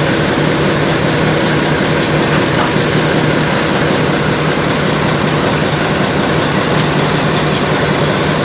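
Fowler diesel shunting locomotive's engine running steadily at idle, a low, even engine note.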